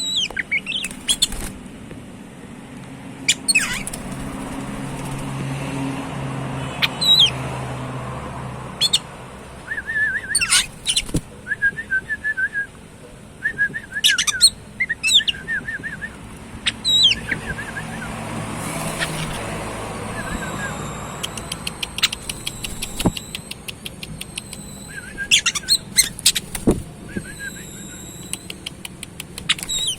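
Oriental magpie-robin (kacer) singing in bursts: sharp whistled notes sliding down in pitch, short fast trills and, in the last third, a rapid rattling series. A low rumble comes and goes twice behind it.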